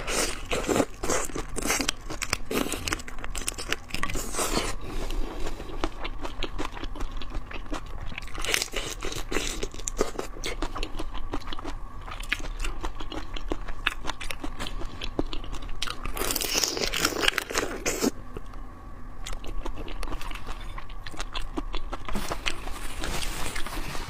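Close-miked crunchy biting and chewing of shrimp, with crackling from the shells. Louder crunching spells come near the start, about a third of the way in and about two-thirds of the way in.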